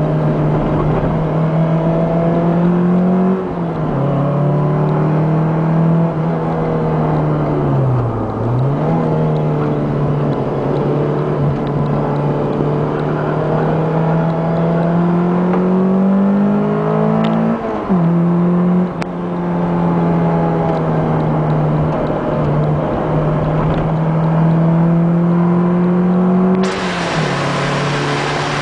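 Sports car engine at high revs heard from on board while lapping a race circuit. Its pitch climbs slowly and drops sharply at gear changes, about three and a half, seventeen and a half and twenty-seven seconds in. About eight seconds in it falls away deeply and climbs again, as when braking for a corner and accelerating out.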